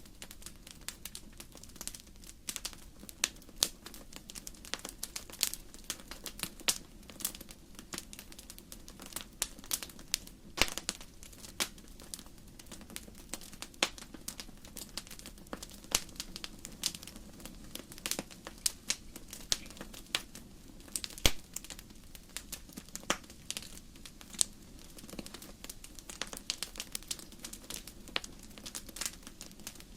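Wood fire crackling: burning logs giving off frequent irregular pops and snaps over a low steady rumble of flame.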